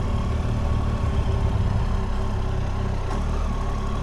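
Motorcycle engine, the rider's Triumph Tiger 800 three-cylinder, running steadily at idle or low speed while the bike is eased into a parking spot.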